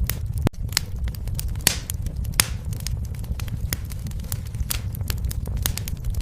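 Fireplace fire crackling: irregular sharp pops and snaps, several a second, over a steady low rumble, with a brief hiss about a second and a half in.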